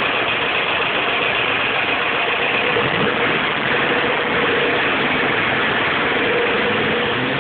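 VW Type 4 two-litre air-cooled flat-four engine on carburettors, running steadily at idle.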